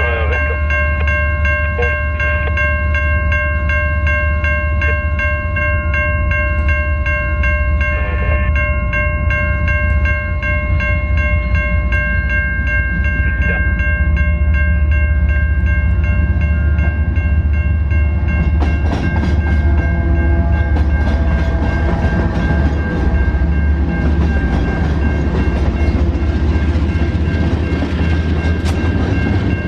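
A train passing a level crossing, with steady ringing bell tones over the low sound of the train. About eighteen seconds in, a denser rattling noise of the passing cars builds.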